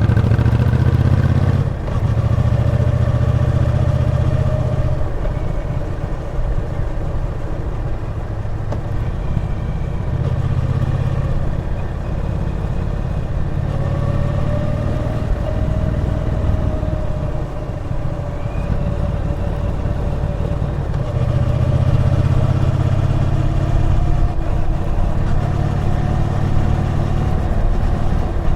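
Triumph Bonneville T120's 1200 cc parallel-twin engine running under way, its exhaust note swelling and easing as the throttle opens and closes, louder near the start and again about two-thirds through.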